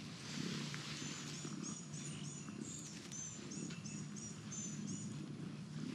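A bird calling a quick series of short, high-pitched chirps, about three a second, starting about a second in and stopping near the end.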